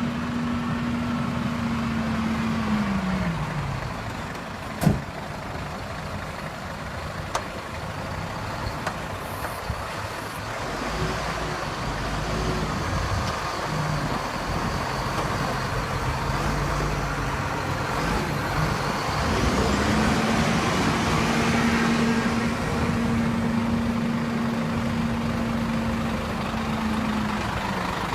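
Scania truck diesel engine held at high revs, falling back to a low idle about three seconds in, with a sharp pop about five seconds in. Around twenty seconds in it is revved up again and held for several seconds, then drops back near the end.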